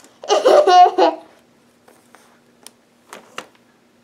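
A raspberry blown with the lips: one loud buzzing burst lasting under a second near the start, followed by a couple of faint short clicks.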